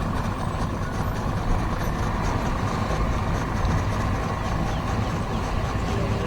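Boat engines running with a steady low rumble.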